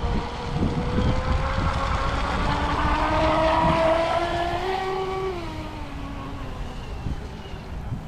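Brushless motor of a Pro Boat BlackJack 26 RC catamaran whining as it runs across the water on 4S power, its pitch climbing to a peak about halfway through and then dropping away. Wind rumbles on the microphone underneath.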